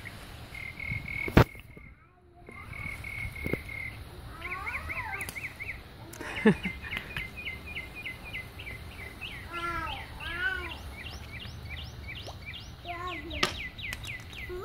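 Birds singing in rapid runs of repeated chirps and trills, with three sharp clacks spread through: one near the start, one in the middle and one near the end.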